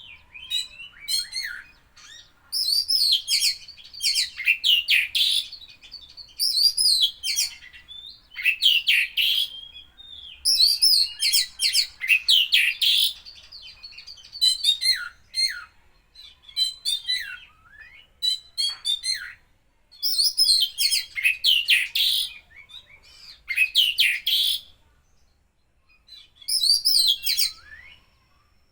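Oriental magpie-robin (kacer) singing loudly in short, rapid bursts of high whistles and trills, its song filled with mimicked calls of other birds; the phrases come one after another with brief pauses and a longer gap a few seconds before the end.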